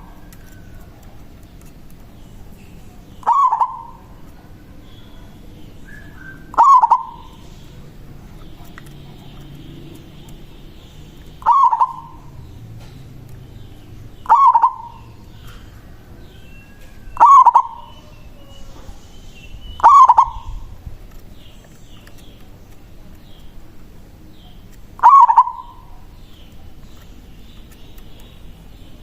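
Local zebra dove (perkutut) cooing: a short, loud call repeated seven times at irregular gaps of about three to five seconds. It is the big-voiced song used as a lure to call rival doves. Faint high chirps sound between the calls.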